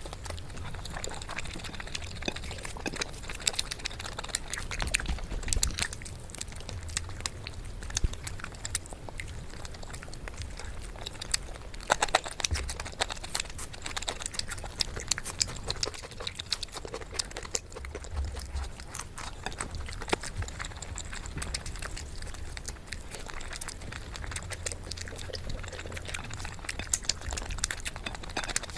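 Close-miked ASMR eating sounds: chewing and lip smacking as chicken and rice are eaten by hand, a dense run of small clicks and smacks over a low rumble.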